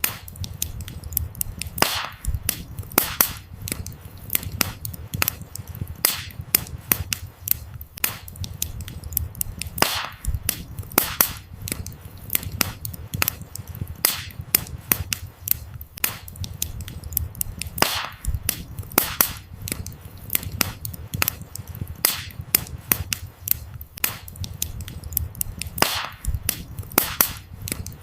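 Wood fire burning, with frequent sharp crackles and pops from the burning firewood over a steady low rumble of the flames.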